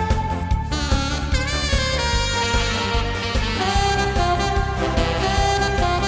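Alto saxophone playing a trot melody in held notes over a backing track with a steady bass beat; one note bends in pitch a little after a second in.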